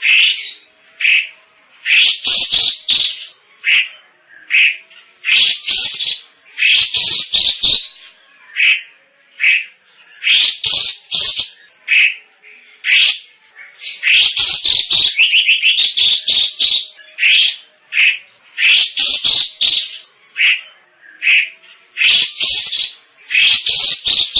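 Cucak cungkok, a caged Indonesian songbird, singing loud, rapid phrases of sharp, high notes again and again, with only short pauses between bursts.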